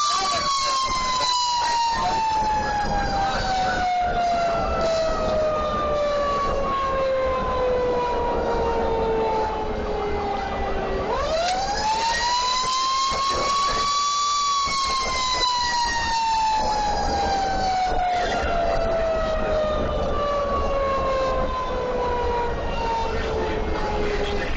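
Fire truck siren, falling slowly in pitch over about ten seconds, winding back up about halfway through, then falling slowly again, over the truck's engine and road noise.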